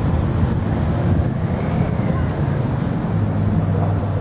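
Motorcycle engine running steadily at low revs, with wind noise on the microphone.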